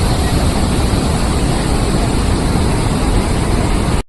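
Loud steady rushing noise with a heavy low rumble, cut off abruptly at the very end.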